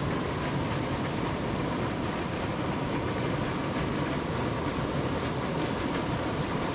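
Storm-swollen stream water rushing and swirling steadily out of a pipe mouth.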